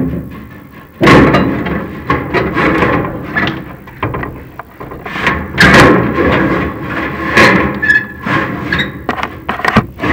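Chimney inspection camera and its rod knocking and scraping inside the sheet-metal flue of a prefabricated fireplace: an irregular run of clanks and rasping scrapes, loudest about a second in and again in the middle and later on.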